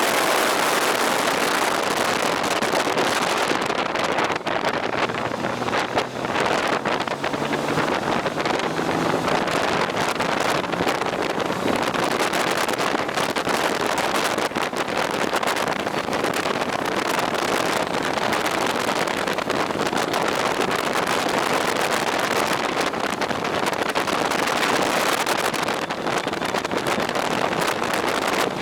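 Wind rushing over the microphone of a moving motorcycle, with the engine running under it.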